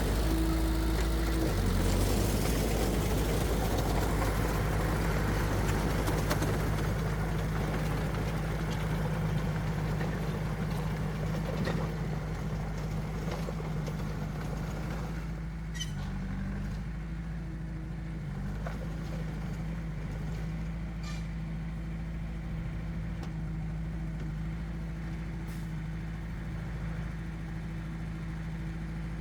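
Diesel engine of heavy earthmoving machinery running steadily. A loud rushing noise over the first half fades out about fifteen seconds in, leaving the engine running more quietly, with a few faint clicks.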